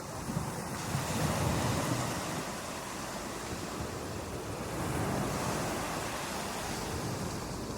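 Ocean surf on a beach: waves breaking and washing in, swelling about a second in and again around five seconds in.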